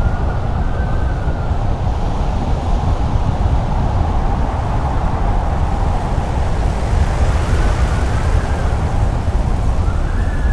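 Blizzard wind blowing hard and steadily with a deep rumble, and a faint whistling howl that rises and falls near the start and again about eight seconds in.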